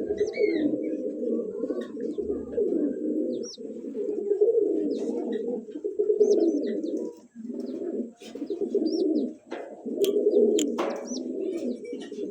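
Several domestic pigeons cooing at once in a dense, continuous warble, with brief high chirps over it and two sharp clicks about ten seconds in.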